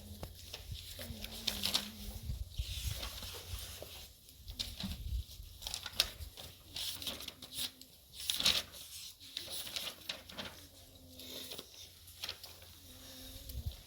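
Rustling and crinkling: something like plastic or cloth being handled, in a string of short, sharp bursts.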